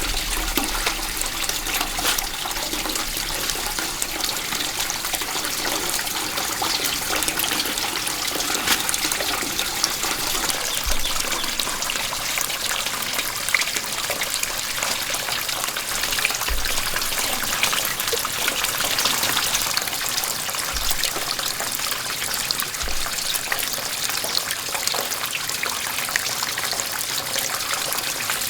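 Steady trickling, splashing water.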